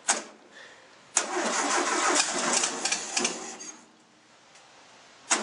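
1974 VW Beetle's air-cooled flat-four being cranked by the starter in the cold without catching: a short burst just after the start, then about two seconds of cranking that dies away, and another short burst at the very end.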